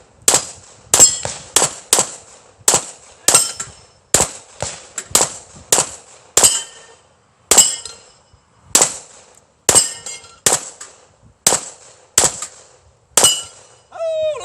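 A string of about twenty gunshots at steel plates on an Irish plate rack, each shot followed by the ringing clang of struck steel. The shots come in quick succession at first and spread out later, about one to two a second.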